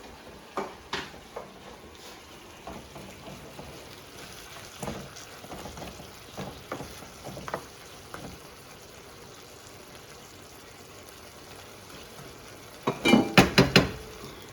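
Lamb and onions frying in a pan with a steady sizzle, with a utensil stirring and tapping against the pan now and then, and a short burst of loud clatter near the end.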